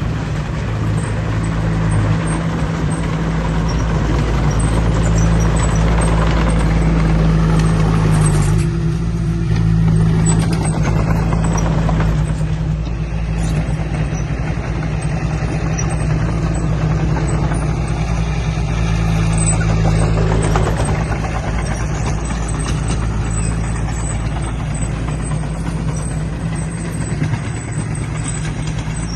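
Heavy diesel engine of earthmoving machinery running steadily under load, with its note shifting a few times.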